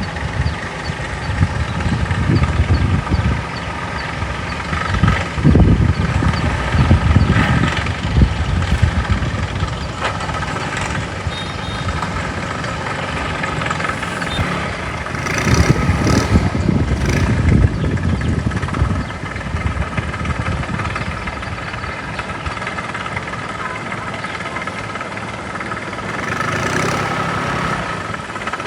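Boat engine running steadily, with uneven low rumbles that swell and fade several times.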